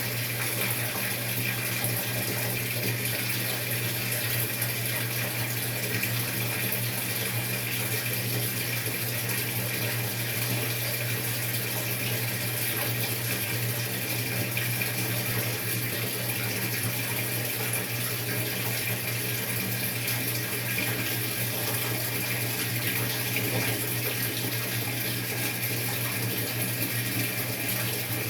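A Maytag MVWX655DW1 top-load washing machine filling its tub with water during a tub clean cycle. The water rushes in steadily over a low, even hum.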